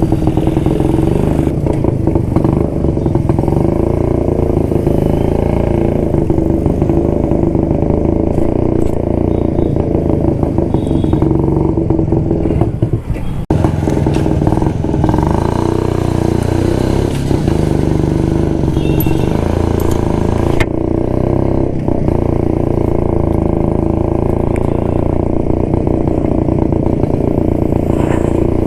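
1972 Jawa motorcycle's two-stroke single-cylinder engine running steadily while riding, with a brief drop in level about thirteen seconds in.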